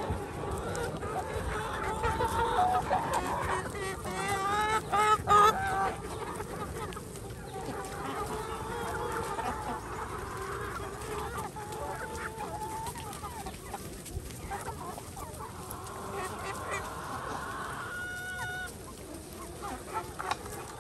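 Domestic fowl calling, many overlapping calls, busiest and loudest about four to six seconds in.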